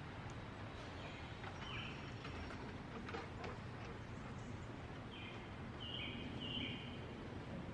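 Birds calling in woodland: a few short, high, even notes about two seconds in, then a short run of them between five and seven seconds in, over a steady background hiss.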